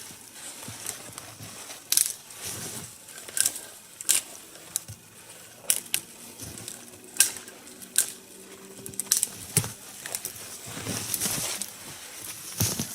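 Dry, needle-less lower branches of a spruce being snapped off by hand: about ten sharp cracks at uneven intervals, with rustling of twigs between them.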